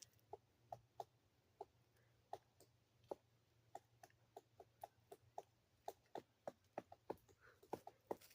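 Woodpecker pecking at wood: faint, irregular taps, about two or three a second.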